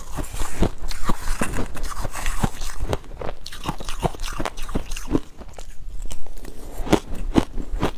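Ice being bitten and chewed close to the microphone: fast, irregular crunches and cracks. They ease for a moment about five to six seconds in, then hard bites crack again near the end.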